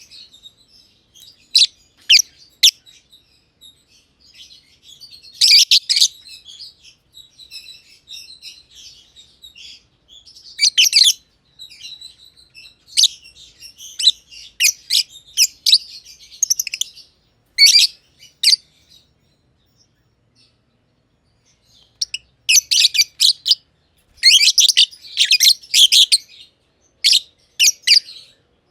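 Masked lovebirds chirping in runs of sharp, high-pitched chirps, pausing for a few seconds in the middle before a longer, busier run of chirps near the end.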